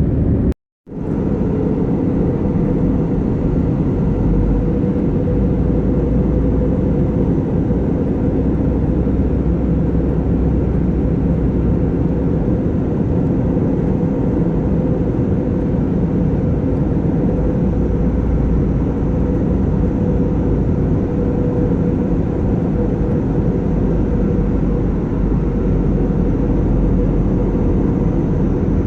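Steady airliner cabin noise in flight: the loud, even rush of air and jet engines with a constant hum. The sound cuts out completely for a moment about half a second in, then resumes unchanged.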